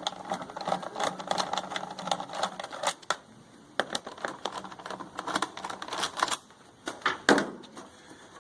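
Irregular clicks, taps and light rattles of hand tools, screws and plastic parts being handled while an inverter generator's housing and muffler cover are taken apart.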